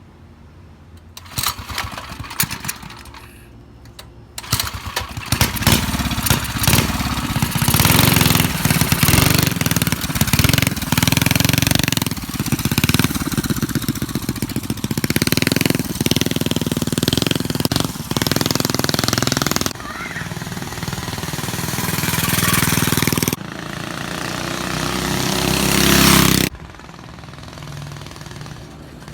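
Mini chopper's small engine, running with no exhaust pipe fitted: it sputters briefly, catches about four seconds in and runs with repeated uneven revving. Near the end it revs up steadily, then drops back suddenly to a quieter low speed.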